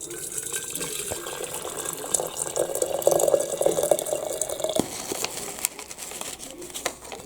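Kitchen tap running into the sink with water splashing, heaviest for the first five seconds, then lighter splashing with small clicks.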